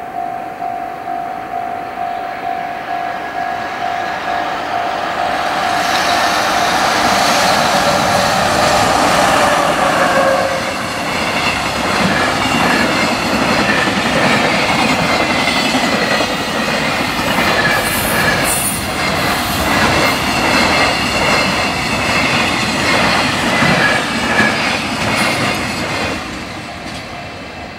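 Level-crossing warning bell ringing steadily while a long freight train rushes through the crossing at speed, its wheels clattering over the rail joints. The train noise builds from about five seconds in, stays loud, and fades near the end while the bell keeps ringing.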